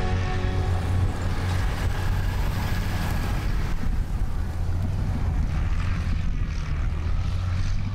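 Mini Cooper convertible's engine running steadily close by as the car drives past.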